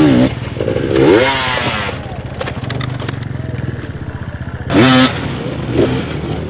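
Dirt bike engine chugging at low revs, with two short bursts of throttle: one about a second in, a louder one near the five-second mark.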